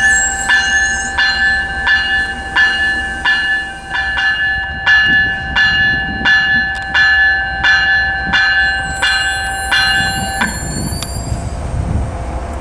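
A railroad warning bell ringing steadily, a little under two strikes a second, over the low rumble of a train; the bell stops about ten seconds in.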